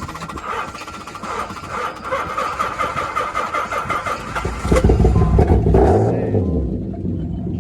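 Chevrolet Corvette V8 through its quad-tip exhaust. A steady higher whirring runs for about four seconds, then the engine comes in loud and low, its pitch swelling and falling once before it settles into a steady idle.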